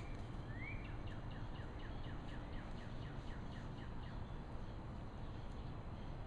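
A bird calling: two short rising whistles, then a run of quick falling notes at about four a second, over a steady low background rumble.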